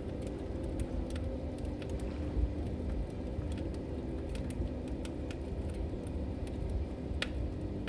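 Log fire burning: a low steady rumble with scattered sharp crackles and pops, one louder pop about seven seconds in.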